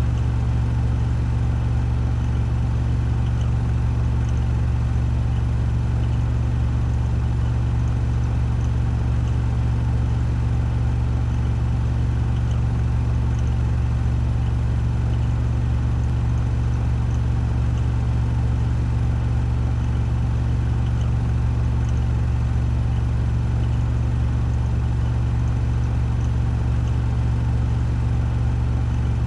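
Washing machine drum spinning at 1400 rpm in the spin cycle: a steady, unchanging hum with a strong low drone.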